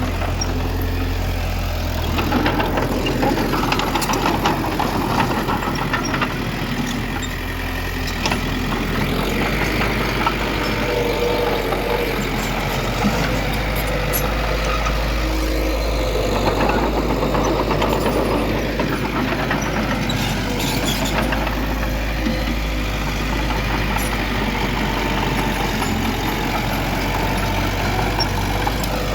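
Heavy diesel engine of earthmoving machinery running steadily, its note dropping and changing load a few times, with occasional metallic clanks.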